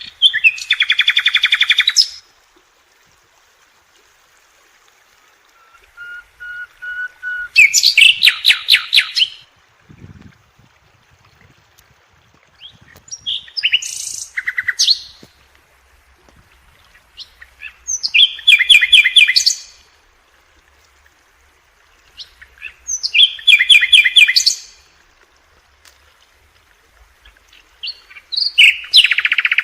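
A songbird singing: six loud phrases of rapid trilled notes, about one every five seconds, one of them led in by two short whistled notes.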